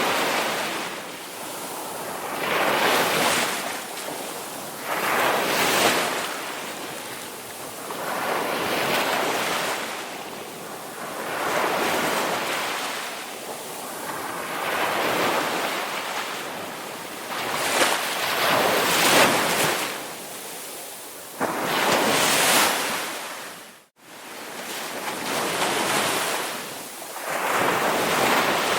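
Ocean waves breaking and washing ashore in repeated swells, one every two to three seconds. The sound drops out abruptly for a moment about three quarters of the way through.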